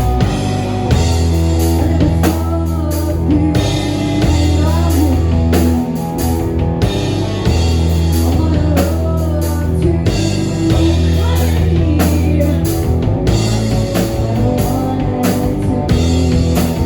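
Rock band playing live: drum kit and guitar over long held bass notes that change every second or two.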